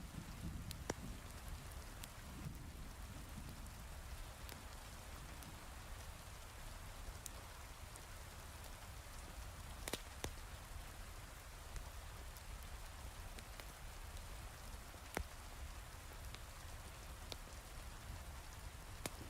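Heavy rain falling steadily, with scattered sharp crackles from a wood fire every second or two; the loudest pop comes about ten seconds in.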